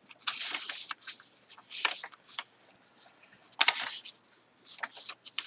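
Paper pages of a handmade journal being turned and handled: four crisp rustles, the sharpest and loudest a little past the middle.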